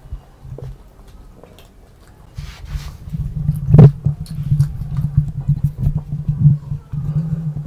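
Close-miked chewing of a mouthful of onion pizza with the mouth closed, starting about two seconds in, over a low steady hum; one sharp, louder crunch about four seconds in.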